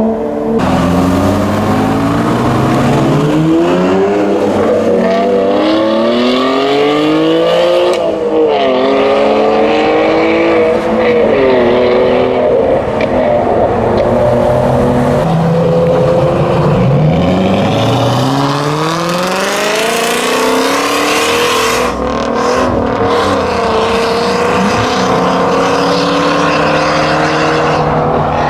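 Performance car engines accelerating hard, the exhaust note rising in pitch and dropping back at each gear change, several times over.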